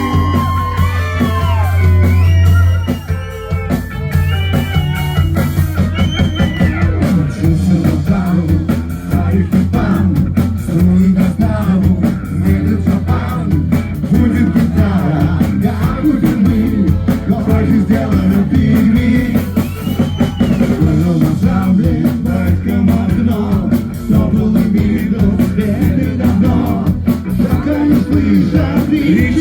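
Live rock band playing a section of the song without lyrics: guitar over a steady drum-kit beat.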